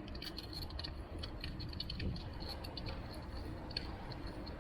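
Bicycle being ridden: a steady low rumble of road and wind with light, irregular ticking and rattling throughout.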